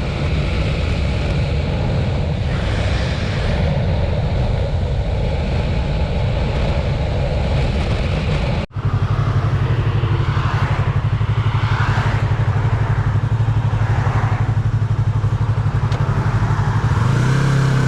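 Motorcycle engine running at steady speed under a haze of road and wind noise. About nine seconds in the sound cuts abruptly to a second ride with a stronger steady engine note, which rises as the bike accelerates near the end.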